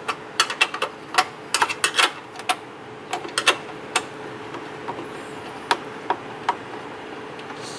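A run of irregular sharp clicks and knocks from hands and tools working in a car's engine bay, many close together in the first two and a half seconds and then only now and then, over a faint steady hum.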